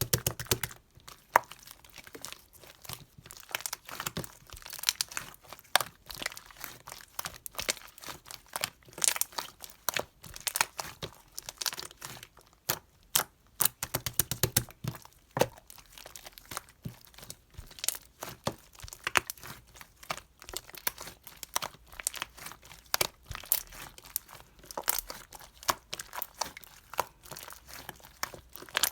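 Irregular crinkling and crackling of something being handled, made of many sharp clicks at an uneven pace.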